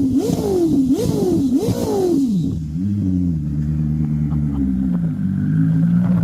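Koenigsegg CC850's twin-turbo V8 revved in quick blips, about two a second, then dropping back to a steady idle a little over two seconds in.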